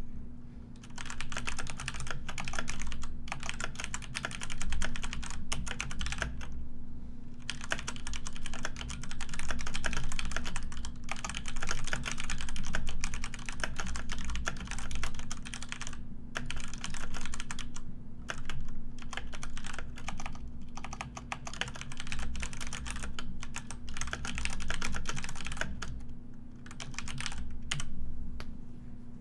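Typing on a computer keyboard: fast runs of keystroke clicks, broken by brief pauses every few seconds, over a steady low hum.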